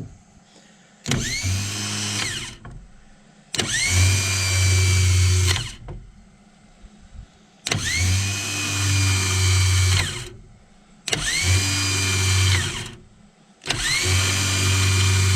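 Rebuilt Ford 5.0 starter motor bench-tested, spun up five times in short runs of about one and a half to two seconds each: each run starts abruptly with a quickly rising whine that holds steady, then winds down. It spins freely and evenly, showing the rebuilt starter works.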